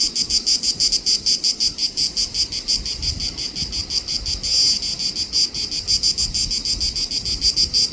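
Small insects calling in a continuous, high-pitched chirring made of rapid, even pulses, about five a second.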